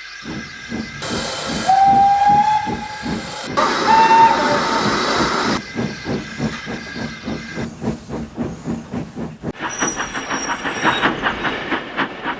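Steam locomotive working, its exhaust beating in a steady rhythm, with two short whistle blasts in the first few seconds and a burst of steam hiss; the beats quicken near the end.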